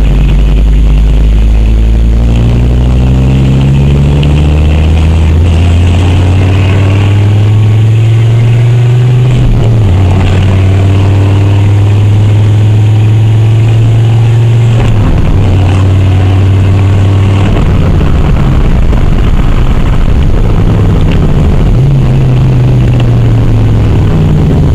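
Audi 100 C3 quattro's five-cylinder engine with no exhaust system fitted, heard loud inside the cabin while accelerating through the gears. The engine note rises steadily and drops at a gear change about ten seconds in and again about fifteen seconds in, then climbs once more near the end.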